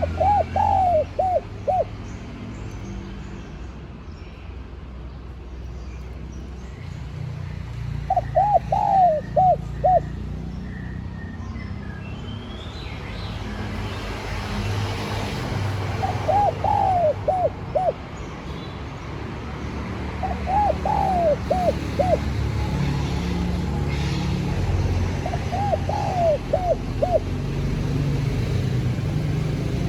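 Spotted dove cooing: five phrases of several quick coos each, spaced a few seconds apart, over a steady low rumble.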